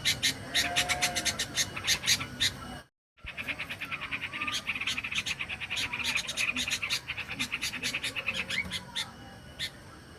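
Recorded yellow-vented bulbul (trucukan) calls played as a bird lure: fast, sharp chattering chips with a few short whistled notes, cutting out completely for a moment about three seconds in where the recording restarts.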